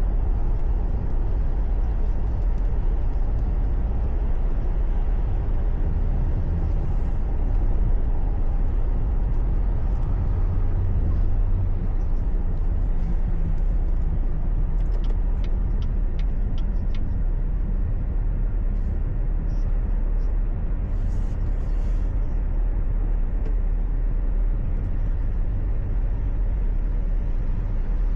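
Steady low road and engine rumble of a car driving on a highway, heard from inside the cabin, with a few faint light ticks about midway.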